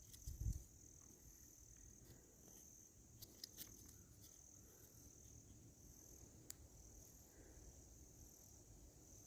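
Faint insect chorus: a steady high trill with a second, higher trill pulsing on and off, crickets by the sound. A soft thump about half a second in and a few light clicks.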